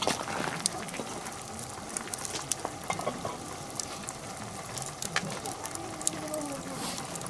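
Wood campfire of hinoki and oak burning, hissing steadily with sharp crackles and pops scattered throughout.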